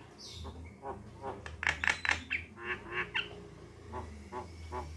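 Javan myna calls: a string of short, harsh chattering notes at an uneven pace, over a low steady hum.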